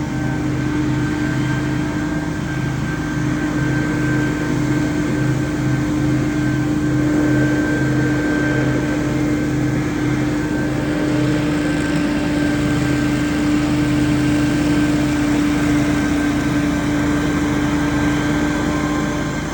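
Gas-powered leaf blowers running steadily, with a constant fan whine over a pulsing engine note.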